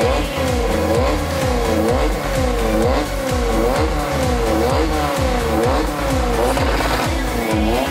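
Volkswagen Gol hatchback's engine revved up and down over and over, its pitch falling and rising about twice a second, with music playing alongside.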